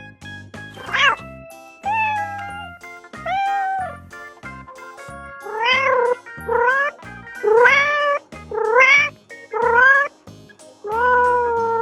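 Domestic cat meowing over and over, about nine meows, each rising and then falling in pitch, louder and closer together in the second half, over background music.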